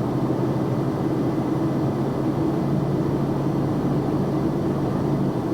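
Box truck driving at a steady pace: engine drone with an even tone and tyre and road noise, holding constant.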